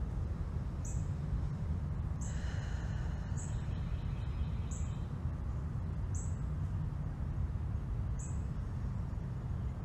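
Short high bird chirps repeating about once a second, with a longer call about two seconds in, over a steady low rumble.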